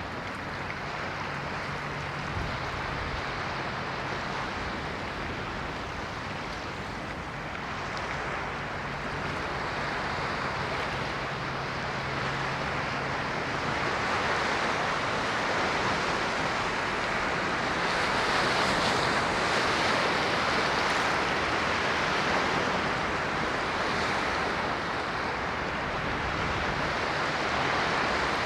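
Ocean waves washing on the shore, a continuous rushing surf that slowly swells louder around the middle of the stretch. A faint steady low hum sits underneath at times.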